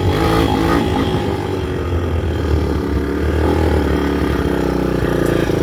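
Honda dirt bike engine running at low speed, its pitch rising and falling a little with the throttle.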